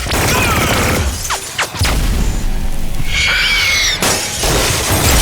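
Cartoon action sound effects of crystal shattering and crashing, layered over a music score, with a brief high squeal that rises and falls about three seconds in.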